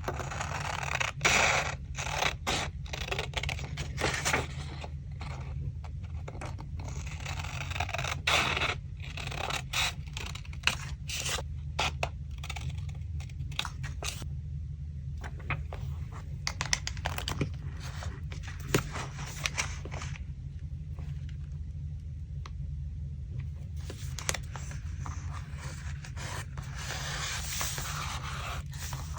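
Paper being handled on a work surface for a collage: irregular rustling, scraping and crackling with short taps, over a steady low hum.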